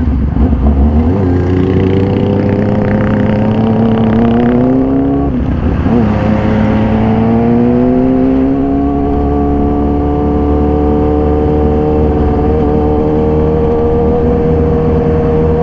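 Inline-four engine of a 2014 Yamaha YZF-R6 with a full SC-Project exhaust, under way: its pitch climbs over the first five seconds, drops sharply as it shifts up about five and a half seconds in, then rises slowly and holds steady.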